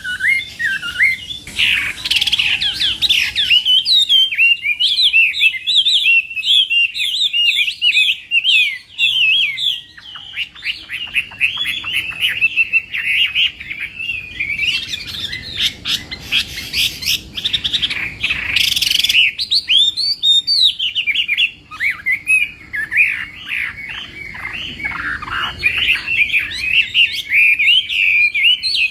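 Chinese hwamei singing a long, rapid run of varied whistled phrases, pausing briefly about twenty seconds in.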